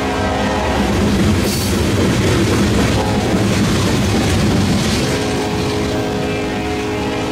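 Loaded-length coal train of open-top coal cars rolling past: a steady rumble and clatter of steel wheels on rail, with a sustained ringing squeal. The rumble swells louder from about a second in until about five seconds, then the ringing tones come back to the fore.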